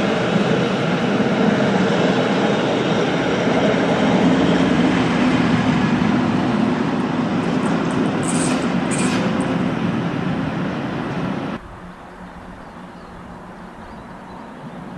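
Rhaetian Railway metre-gauge passenger train rolling through the station: a steady rumble of wheels on rail, with two brief high squeals around eight and nine seconds in. Near the end the sound drops suddenly to a much quieter background.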